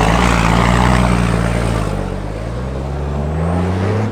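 Tatra Dakar rally truck's big diesel engine running hard, loud; its pitch drops about halfway through and then climbs again as it revs up near the end, where the sound cuts off abruptly.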